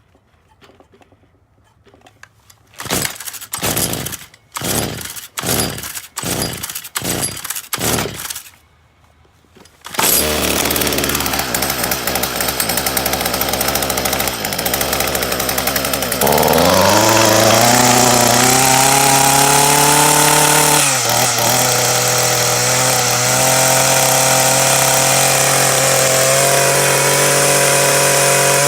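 Stihl FS45 string trimmer's two-stroke engine being pull-started cold: a quick series of rope pulls, then the engine catches about ten seconds in and runs. Around the middle it revs up to a high, steady speed.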